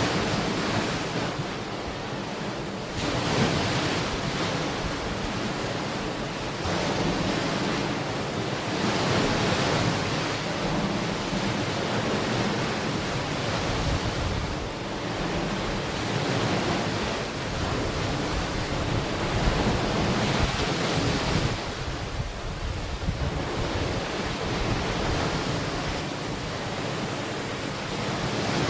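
Ocean waves breaking and washing onto a beach, the surf swelling and easing every few seconds, with some wind on the microphone.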